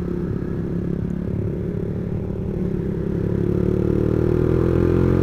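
Yamaha MX King 150's single-cylinder four-stroke engine running through a custom aftermarket exhaust while riding, its pitch and loudness climbing steadily in the second half as the bike accelerates.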